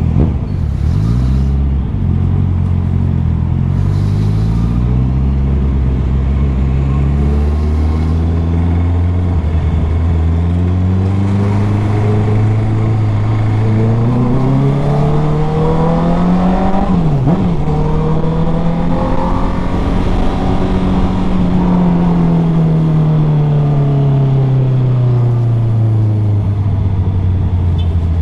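Motorcycle engine running under way, low and steady at first, then rising in pitch as it accelerates. About seventeen seconds in the note dips sharply and recovers, holds high for a few seconds, then falls back as the bike slows.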